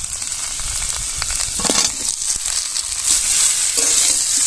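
Giant freshwater prawns, tomato and fried potatoes sizzling in spiced oil in a metal wok. A metal spatula stirs them and now and then scrapes and clinks against the pan.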